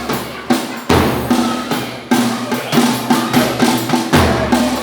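Folia de Reis folk music: drums beating a steady pulse of about two strokes a second, with low booming hits, under held instrument notes.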